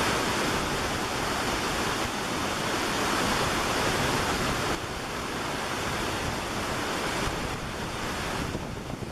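Steady rush of a waterfall. The noise drops somewhat about halfway through.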